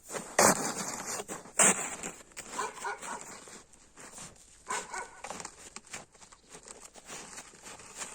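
Snow being crunched and packed down: two loud sharp crunches in the first two seconds, then softer irregular crunching and scraping, with a few faint short high-pitched sounds in between.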